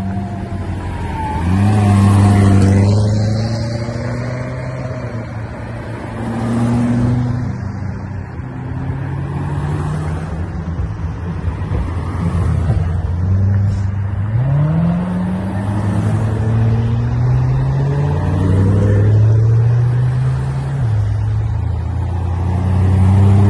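Car engines running as several cars drive past one after another, the engine pitch rising as they pull away. The sound swells loudest about two seconds in, again around seven seconds, and near the end.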